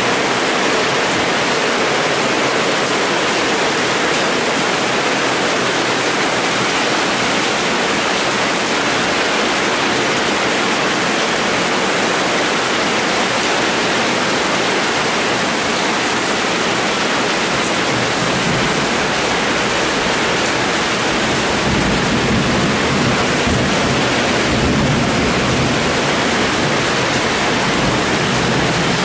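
Heavy rainstorm downpour, a loud, steady, even hiss of rain. A low rumble swells in for several seconds past the middle.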